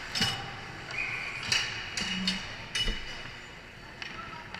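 Several sharp knocks and clacks, four or five in about three seconds, over a steady arena hum: hockey sticks and puck striking on the ice during play.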